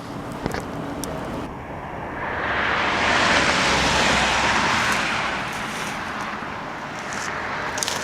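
A car passing by: its tyre and road noise swells over a couple of seconds, peaks, then fades away again.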